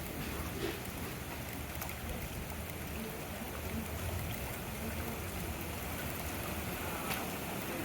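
Steady heavy rain falling, with runoff trickling and a few faint drop ticks, one about seven seconds in.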